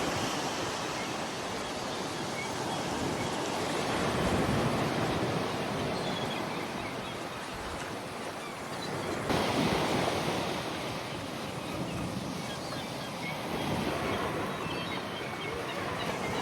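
Sea waves breaking and washing on the shore, the rush of water swelling and fading every few seconds.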